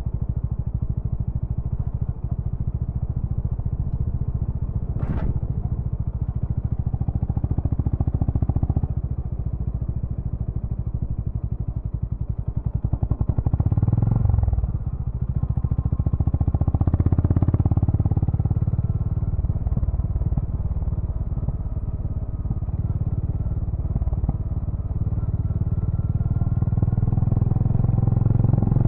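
Honda GB350's air-cooled single-cylinder engine and exhaust running with a steady low pulse. Its engine speed rises and eases off a few times, about halfway through and again near the end. A single sharp click sounds about five seconds in.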